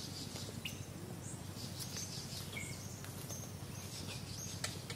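Scattered short, high bird calls and chirps over a steady low background hum.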